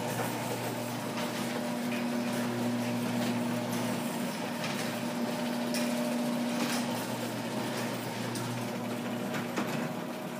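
Electric garage door openers running, raising the doors: a steady, noisy motor hum with rattling and clicking from the drive and door, fading out near the end as the run finishes.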